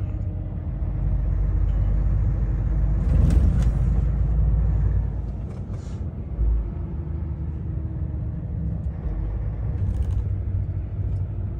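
Heavy truck's engine and road noise heard from inside the cab: a steady low rumble that swells for a few seconds, with a brief hiss about three seconds in and a short thump a little after the middle.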